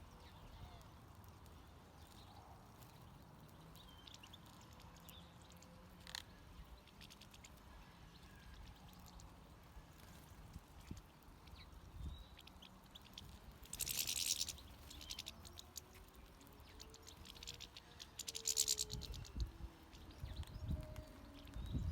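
European goldfinches twittering faintly, with two short bursts of rapid, high twittering partway through. Low rumbling comes in near the end.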